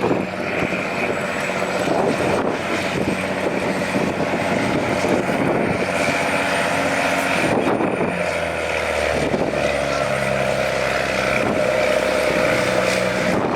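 Engine of an old ex-Army truck pulling a sled at a slow, steady pace. It runs with a steady pitch that shifts in a few steps and drops lower about eight seconds in.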